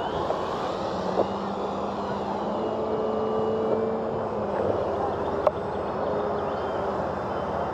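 Electric RC airplane in flight, its motor and propeller whine faint, with the pitch drifting up and down over a steady outdoor noise bed. Two small clicks, one about a second in and one past the midpoint.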